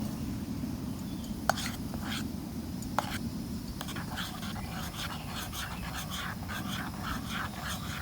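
Steady low rumble with two sharp clicks, then from about four seconds in a quick run of short, repeated animal calls, about three a second.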